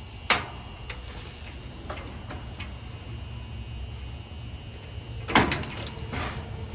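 Handling noise from hands-on repair work on dryer wiring: a sharp snap just after the start, a few light clicks, then a louder clatter and scrape about five seconds in, over a steady low hum.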